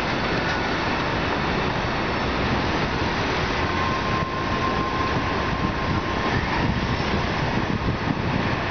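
Loaded coal cars rolling past on jointed track, a steady rumble of wheels on rail. A thin, steady high squeal runs for a couple of seconds in the middle.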